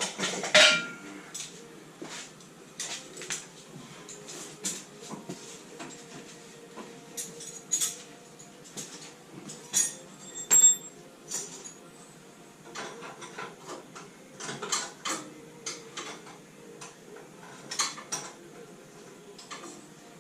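Metal hand tools clinking and clattering against each other and against car parts in scattered, irregular knocks, with a louder ringing clang about half a second in.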